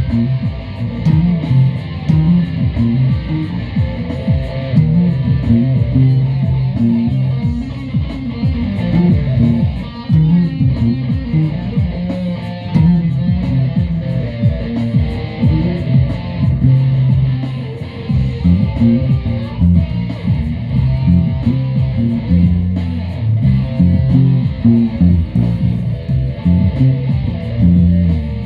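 Instrumental guitar music: plucked and strummed guitar notes and chords playing on without singing.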